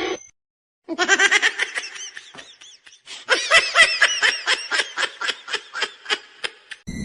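A person laughing in two bouts of rapid, high-pitched ha-ha pulses, about four or five a second, the second bout louder and longer.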